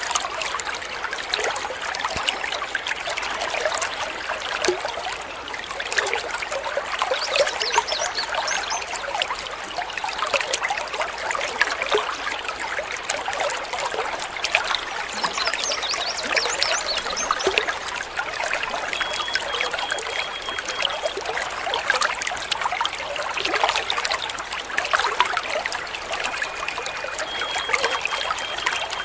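Small stream of water trickling and babbling steadily. Short high bird notes come in twice in the second half.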